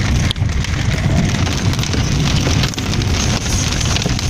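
Hail drumming on a car's roof and windshield, a dense, steady clatter of many small hits, heard from inside the cabin.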